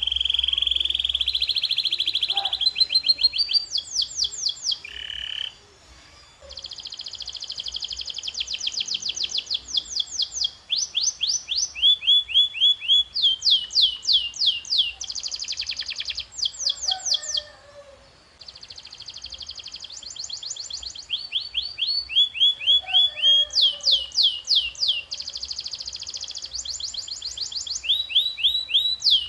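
Domestic canary singing a long song of rapid trills. Its runs of fast repeated notes, each sweeping downward, alternate with buzzing rolls, with two short pauses.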